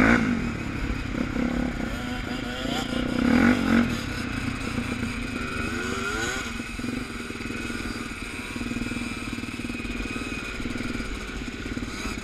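Suzuki DR350 trail bike's single-cylinder four-stroke engine running on the move, its pitch rising and falling as the throttle opens and closes, loudest about three and a half seconds in.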